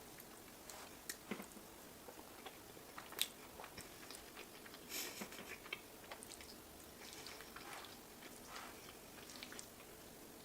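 A person chewing and eating close to the microphone: irregular soft mouth clicks and smacks, one sharper click about three seconds in.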